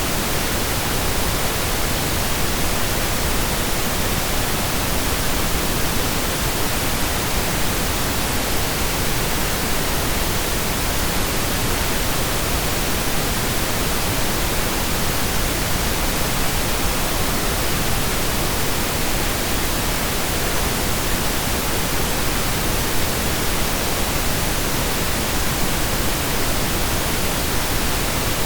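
Steady synthesized pink noise: an even hiss with equal energy per octave, with no changes.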